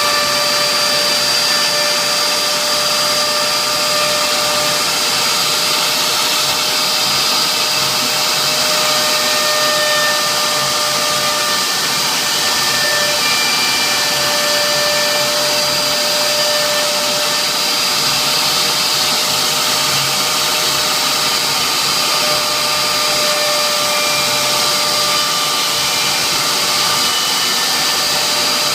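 CNC router spindle running steadily while engraving a wooden board, a constant whine over a hiss of cutting noise.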